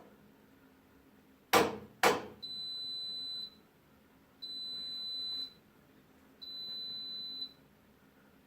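Electrolux WD41A84160 washing machine's end-of-cycle signal: three steady high beeps about a second long, one every two seconds, after two loud clicks from the machine, marking that the wash programme has finished.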